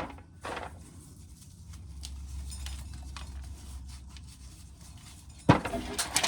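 Dried corn being shelled into a pail: a click, a quieter stretch, then a sharp knock followed by kernels clattering near the end.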